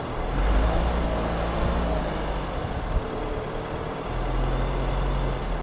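A motor vehicle running with a steady low rumble and road or wind noise, which cuts off abruptly at the end.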